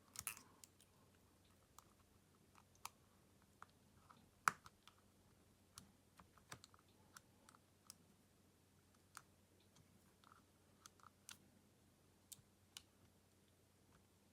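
Small, sharp clicks and taps of tools against a Xiaomi Redmi Note 11 phone and its plastic parts being worked apart, coming irregularly about once a second, the loudest a crisp click about four and a half seconds in.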